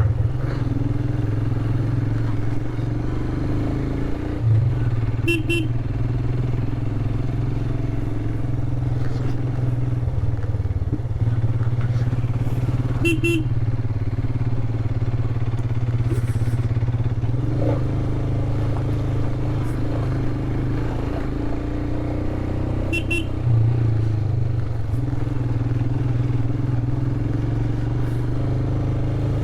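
Royal Enfield Himalayan's 411 cc single-cylinder engine running at a steady cruise while the bike is ridden, heard from on the motorcycle. Three short beeps come at intervals over it.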